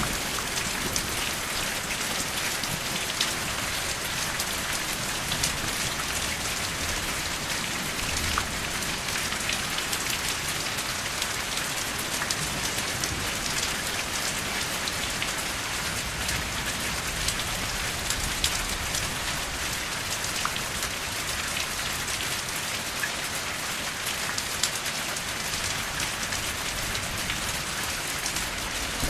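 Steady rain falling and pattering on a surface, with the sharp ticks of single drops throughout.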